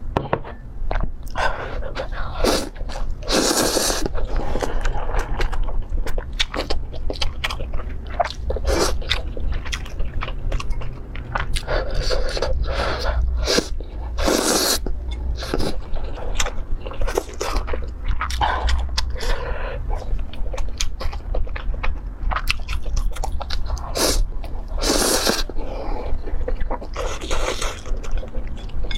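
A person chewing and biting food, with crunches and many short, sharp bites and chews following one another, over a low steady hum.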